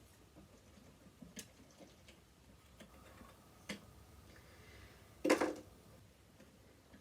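Small parts of a sewing machine being handled during disassembly: a few light clicks, then about five seconds in a brief, louder clatter.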